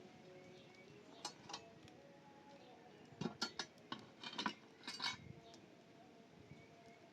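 A few light clinks and knocks, as of hard objects such as metal or glass tapping together, scattered over about four seconds with a small cluster in the middle.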